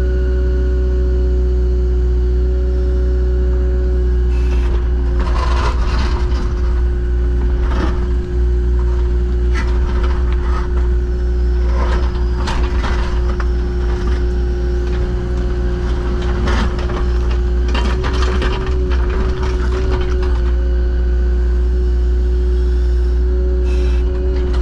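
An engine running steadily at idle, with irregular knocks and scrapes from about four seconds in until about twenty-one seconds.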